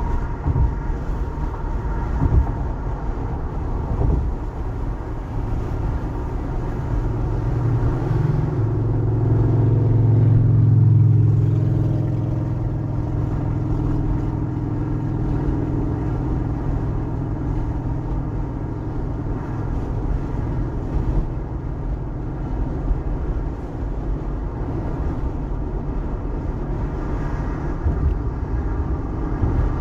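Car travelling at highway speed: steady road and tyre noise with a low engine rumble. A low drone swells louder for a few seconds around the middle, then settles back.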